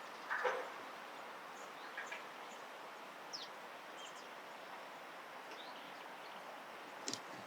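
Scattered short bird calls over a steady outdoor background hiss: one louder call just after the start, then faint high chirps every second or so. A sharp click near the end.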